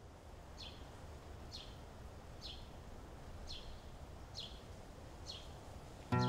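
A bird calling over and over, one short falling chirp about once a second, over a low steady outdoor hum. Guitar music comes in suddenly near the end.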